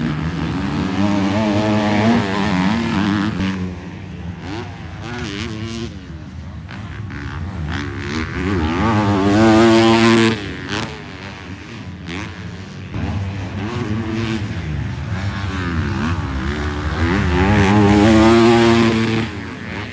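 Motocross bikes racing on the track, their engines revving up and down through gear changes and jumps. One bike passes close and loud about halfway through, with a rising rev that cuts off sharply, and another loud pass comes near the end.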